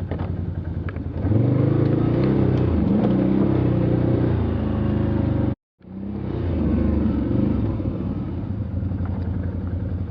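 Off-road vehicle engine working hard under load, its revs rising about a second in and holding high. The sound cuts out completely for a split second just past the middle, then the engine carries on.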